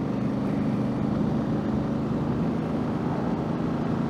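2019 Honda Africa Twin's parallel-twin engine running at a steady speed while riding, with road and wind noise underneath.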